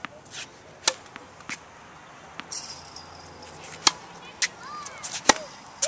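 Tennis balls being struck on serve and bouncing on the court: a scattering of sharp pops, several players at once, with the loudest about five seconds in.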